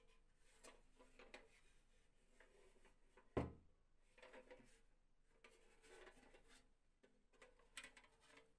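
Faint, scattered clicks and scrapes of something being handled, with one sharp knock about three and a half seconds in.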